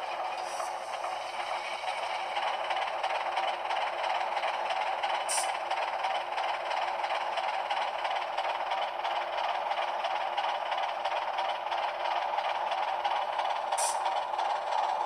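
HO-scale model diesel locomotive running, its LokSound V5 sound decoder playing the diesel engine sound through a small sugar-cube speaker, with the wheels clattering along the model track. There are three short high clicks: one near the start, one about five seconds in and one near the end.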